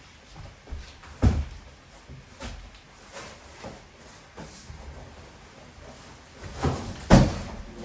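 Scattered knocks and thuds of objects being handled and set down, loudest a little over a second in and again near the end.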